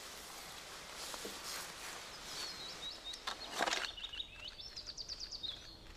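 Quiet woodland ambience with no chainsaw running. A small bird sings a quick series of high chirps through the middle, and dry leaf litter rustles briefly underfoot a little past halfway.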